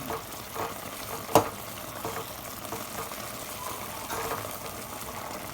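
Chicken adobo sizzling and simmering in a pan as its sauce reduces, with a cooking utensil moving the chicken pieces and one sharp knock against the pan about a second and a half in.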